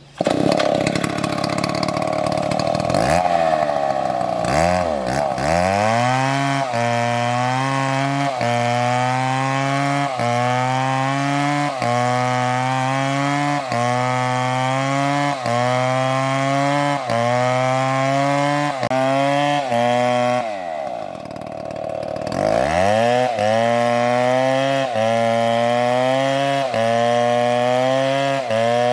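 Chainsaw cutting a tree at full throttle. Its engine note starts suddenly, then bogs down and climbs again in a regular cycle about every second and a half as the chain bites. About two-thirds of the way through, the revs sag for a couple of seconds before picking back up.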